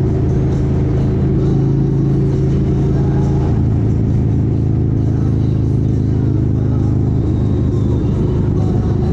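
Motorcycle engine running steadily at road speed, its pitch dropping a little about three and a half seconds in.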